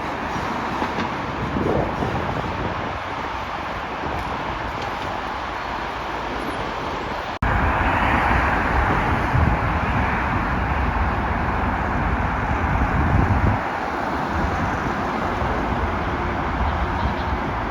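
Train running on the rails, a steady rumble and rolling noise. About seven seconds in, an abrupt cut leads into a louder stretch of the same kind of noise.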